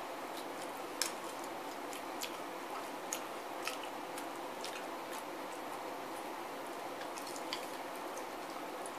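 Chewing and biting on chicken wings: irregular wet clicks and smacks from the mouth and the meat being pulled apart, over a steady hiss.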